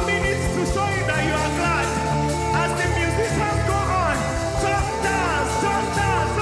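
Live gospel worship band music: sustained bass and keyboard chords under a steady drum beat, with a high lead line of swooping, sliding notes.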